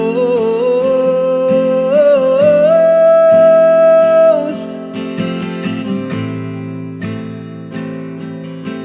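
Worship song with steady acoustic guitar strumming. A solo singer holds a long final note that steps up in pitch and ends on a hissed 's' about halfway through, after which the guitar carries on alone.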